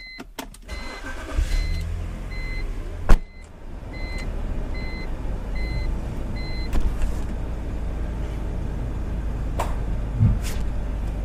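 A car warning chime dinging evenly, roughly twice a second, while the Mustang 5.0's V8 is started and settles into a steady idle. A single sharp knock about three seconds in is the loudest moment; the chime stops a little over halfway through.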